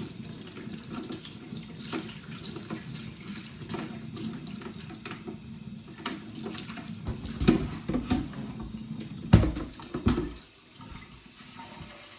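Tap water running into a plastic vacuum dust bin at a sink, splashing steadily. In the second half come a few loud knocks, and about ten seconds in the running water cuts off.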